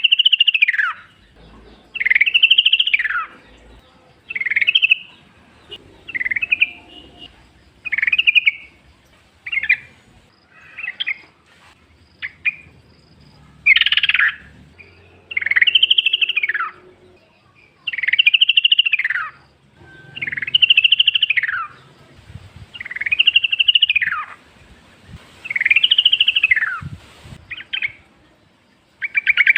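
Yellow-vented bulbul (trucukan) singing over and over: bubbly, trilled phrases about a second long, each rising then falling in pitch, repeated every two seconds or so, with a few shorter notes in between.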